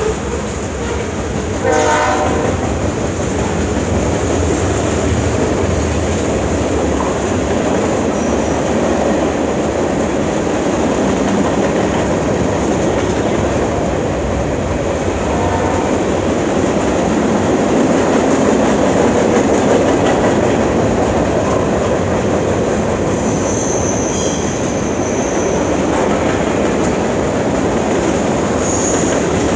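CN freight train's cars rolling past, with steady wheel-on-rail noise throughout. A brief pitched tone sounds about two seconds in and a fainter one around the middle.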